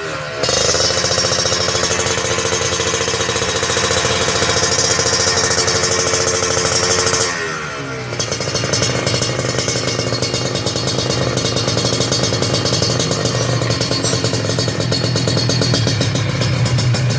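Motorcycle with an aftermarket racing exhaust, revved up and held at high revs for about seven seconds, then dropping back to steady lower-rev running for the rest.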